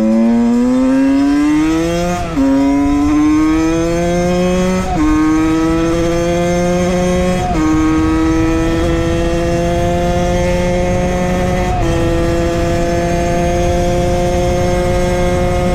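Suzuki Valenti 50 motard's 50cc engine, through its Scalvini exhaust, accelerating at full throttle through the gears. The pitch climbs in each gear and drops at upshifts about 2, 5 and 7.5 seconds in. It then holds a nearly steady high note at top speed, with one small step near 12 seconds.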